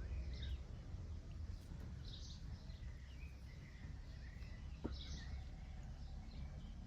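Small birds chirping on and off over a steady low outdoor rumble, with one sharp tick about five seconds in.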